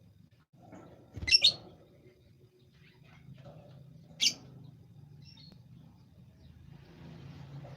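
A bird calling: two loud, short, high chirps, one about a second in and another just after four seconds, then a fainter short call, over a faint low hum.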